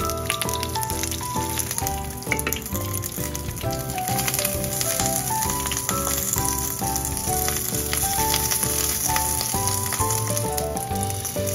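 Pieces of Japanese long onion (negi) sizzling as they fry in oil in a rectangular tamagoyaki pan. Background music of light stepped notes plays under it.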